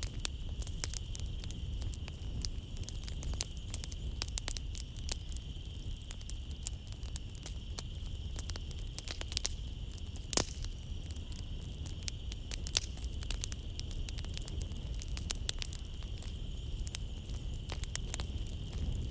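Wood fire crackling in a fireplace, with dense irregular pops and snaps over a low steady rumble, and one sharper pop about halfway through. A steady high chirring of night insects runs underneath.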